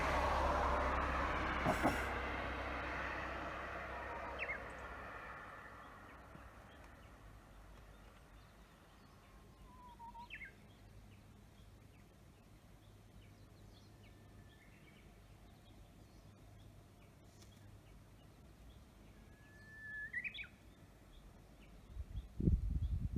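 A passing vehicle's noise fading away over the first few seconds, then quiet countryside with wild birds calling: short whistled notes, several of them sweeping upward, every few seconds. Low rumbling thumps come in near the end.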